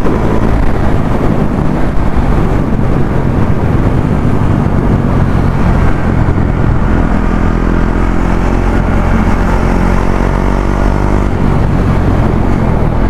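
KTM Duke 390's single-cylinder engine running steadily as the motorcycle rides along, heard loud and close.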